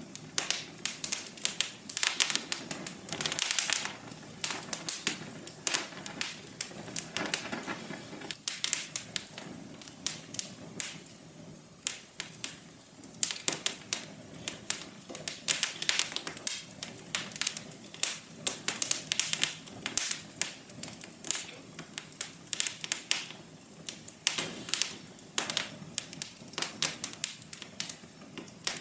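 Wood fire in a fireplace crackling: irregular sharp snaps and pops, sometimes in quick clusters, over a soft steady hiss.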